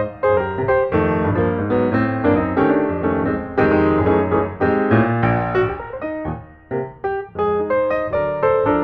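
Background piano music, with notes and chords struck in quick succession and left to ring.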